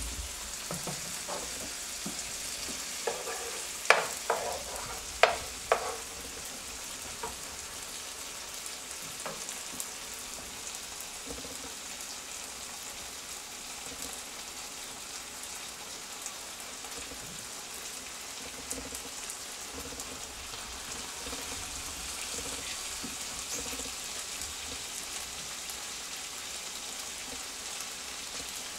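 Drained ramen noodles sizzling steadily as they fry in hot oil in a pan. A few sharp clicks come about three to six seconds in.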